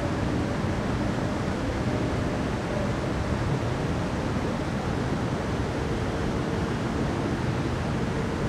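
Steady rushing noise with a strong low rumble.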